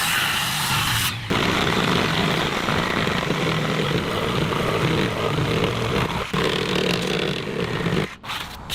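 A steady machine running, like a power tool at work: a hissing sound at first, changing about a second in to a fuller, lower running noise that stops shortly before the end.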